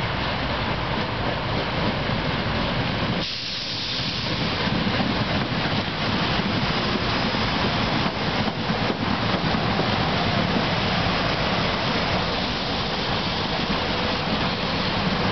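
SEPTA Silverliner IV electric multiple-unit train pulling into a station and rolling past close by: a steady rumble of wheels and running gear with a hiss. It gets louder about four seconds in as the lead car draws alongside.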